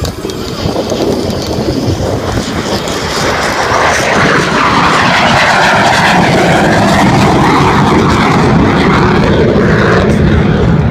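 A military aircraft flying past at an airshow. The engine noise builds to a loud peak about four seconds in and stays loud as it passes, sweeping in pitch.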